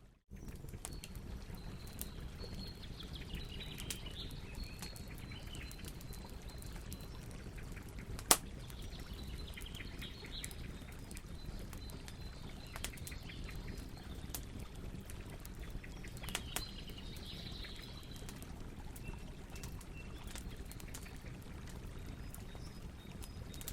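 Campfire crackling: a steady low rumble with scattered pops and one sharp, loud pop about eight seconds in. Birds chirp faintly now and then.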